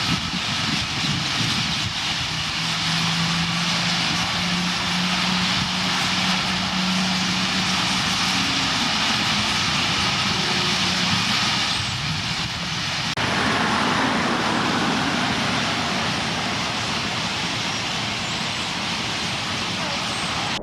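Dense, steady din of a huge roosting flock of purple martins calling, mixed with road traffic. A low engine hum runs under it for several seconds. The sound shifts abruptly about thirteen seconds in.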